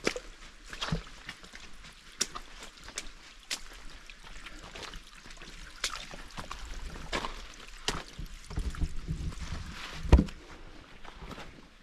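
Irregular footsteps and scuffs of hikers moving over a rough trail, with a heavier thump about ten seconds in.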